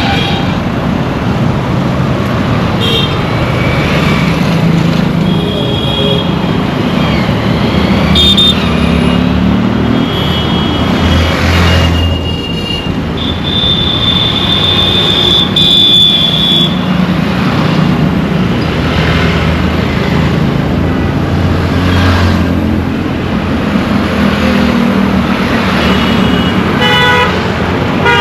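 Dense street traffic: a steady rumble of engines and road noise, with horns honking over it many times. One horn holds for about three seconds in the middle, and near the end comes a quick series of short beeps.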